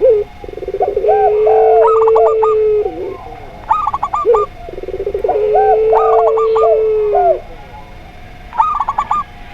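Mixed dove calls from zebra dove, spotted dove and puter pelung: two long drawn-out coos with stuttering starts, overlaid by shorter rising coo notes and four quick clusters of higher, rapid staccato notes.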